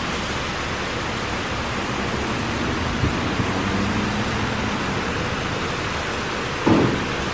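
Oasis Monsoon automatic car wash spraying water: a steady hiss of spray and mist, with a faint machine hum for a few seconds in the middle and a brief thump near the end.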